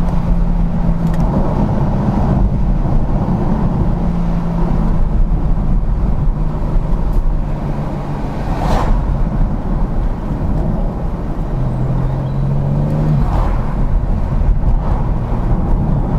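BMW M4 Competition G82's twin-turbo straight-six running at a steady cruise, its engine note holding steady and dropping lower for a short stretch near the end, over heavy road and tyre rumble.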